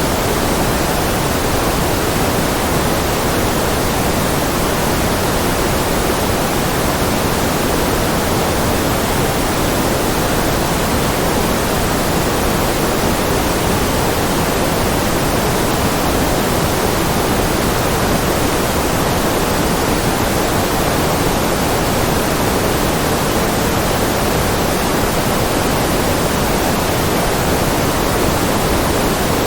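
Steady synthetic noise, white noise with more weight in the lower frequencies than the highest, unchanging throughout.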